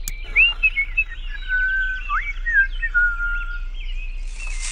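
Birds chirping and whistling: quick rising and falling chirps mixed with a few longer held whistled notes, fading out about three-quarters of the way through.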